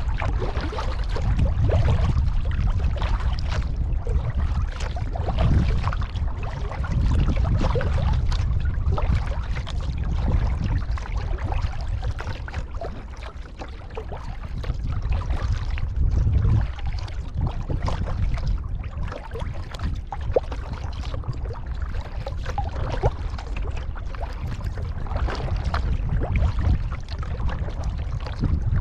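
Kayak paddle strokes through the water, with drips and trickles off the blades, over a steady low rumble.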